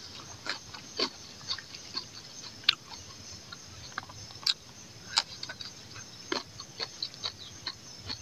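Close-miked chewing and lip smacking as a man eats rice and meat by hand: irregular wet clicks and smacks, a few every second.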